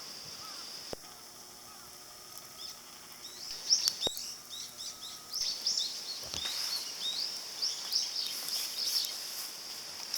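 A bird calling in a quick series of short chirps from about two and a half seconds in, over a steady high-pitched hiss of outdoor ambience, with a couple of sharp clicks.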